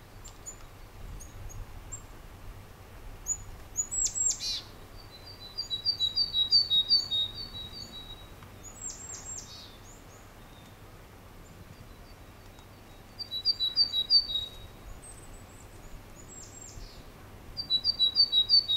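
Small songbirds calling: three bouts of quick, high, repeated chirps, a few seconds in, about two-thirds through and at the end, with a few sharp high calls that sweep downward in between.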